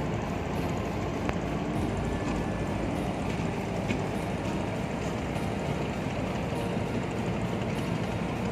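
Steady low rumble of a tugboat's diesel engine towing a coal barge, running evenly without change.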